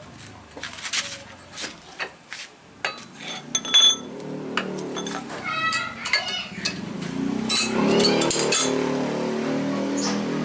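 Metal tools clinking and knocking against metal parts, some strikes leaving a short metallic ring. From about halfway a steady low drone with several tones comes in and is louder than the clinks.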